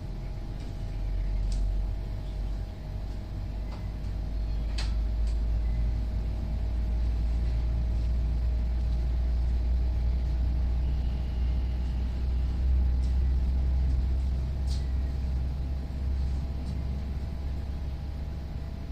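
A steady low rumble dominates, swelling slightly midway, with a few brief, high bird chirps over it.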